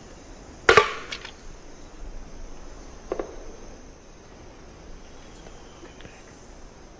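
Wooden double knocks of the pale-billed woodpecker kind: a loud pair of strikes close together about two thirds of a second in, then a fainter pair about three seconds in. A steady high insect buzz runs underneath.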